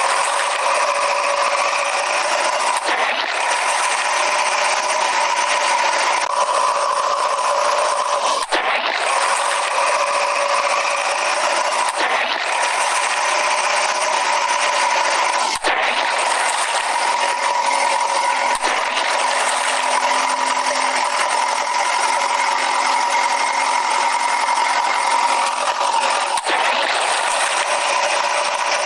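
Small electric gear motors of radio-controlled toy construction vehicles running, a steady high-pitched whine with a brief break every few seconds.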